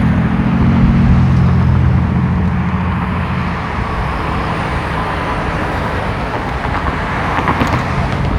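Road traffic noise: a nearby motor vehicle's low engine hum is strong for the first few seconds and fades out about three and a half seconds in, leaving a steady hiss of tyre and road noise.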